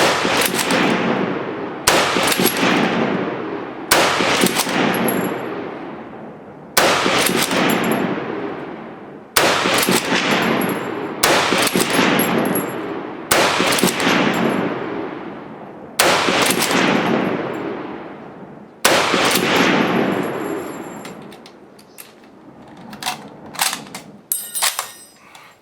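Rapid aimed fire from a Long Branch Lee-Enfield .303 bolt-action rifle during a Mad Minute: nine shots about two to three seconds apart, each followed by a rolling echo that dies away over a couple of seconds. Near the end, quick metallic clicking and clatter from the rifle as it is reloaded.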